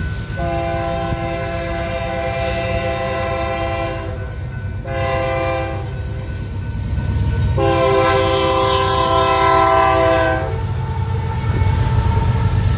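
Locomotive air horn sounding a chord in three blasts, a long one, a short one and a long one, over the steady low rumble of the passing train. This is the tail of the long-long-short-long grade-crossing signal.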